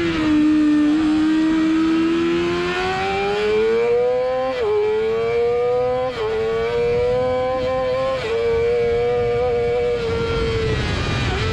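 Sport motorcycle engine pulling hard at full throttle, revs climbing and then dropping sharply at three upshifts, about four and a half, six and eight seconds in, over steady wind rush. Near the end the throttle closes and the engine note falls away as the bike slows for a corner.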